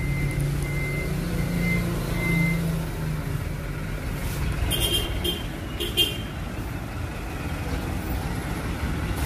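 Kubota four-wheel tractor's diesel engine running steadily, with two short, high-pitched sounds about five and six seconds in.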